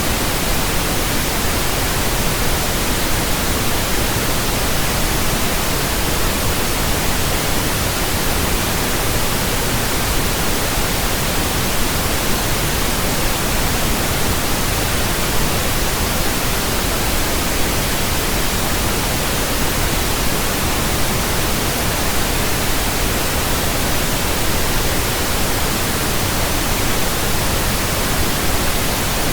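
Steady pink noise from a signal generator: an even, unbroken hiss across the whole range, played as a burn-in track for new speakers, headphones and earphones.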